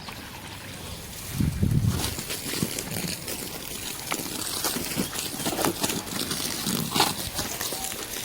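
Water splashing and trickling across a pig pen floor as it is washed, with a short low grunt about a second and a half in.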